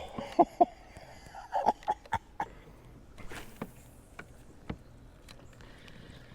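Sharp knocks and clicks of fishing gear handled aboard a kayak, the loudest two about half a second in, with a brief hiss a little past halfway and a few fainter clicks after it.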